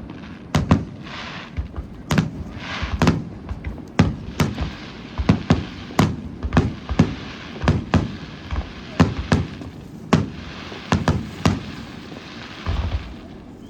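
Aerial fireworks bursting in rapid, irregular succession: a dense run of sharp booms, about two a second, with a crackling hiss between some of the bursts.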